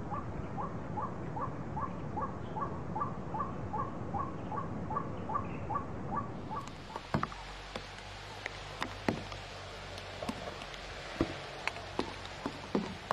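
White-breasted waterhen giving its call, a monotonous run of short repeated notes, about two and a half a second, for some six seconds. The calling then stops and only scattered sharp ticks and taps are heard, like drips.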